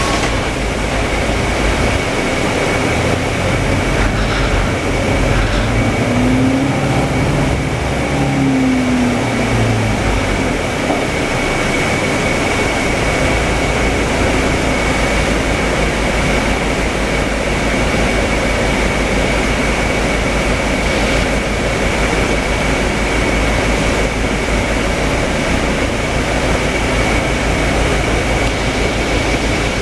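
Interior of a Scania K320UA city bus: the rear engine and running noise fill the cabin, with the engine pitch rising and then falling a few seconds in before settling to a steady drone. A thin high whine holds steady throughout.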